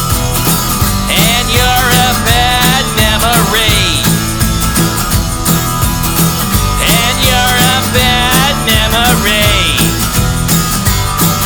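Rock band music: drums and guitars playing an instrumental passage, with a bending lead melody in two phrases.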